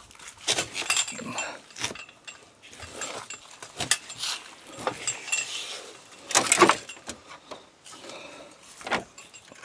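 Irregular clicking, clinking and rattling of plastic grille pieces being handled and cut, with a louder clatter about two-thirds of the way through.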